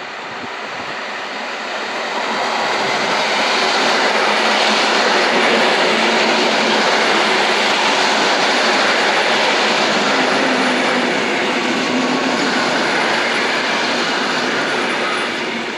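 Passenger train running past on the tracks: a steady, loud rush of wheel and running noise that builds over the first couple of seconds and eases off near the end.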